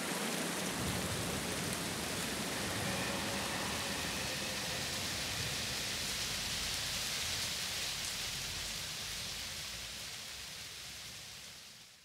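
Steady hiss of a rain sound effect, fading out over the last two seconds.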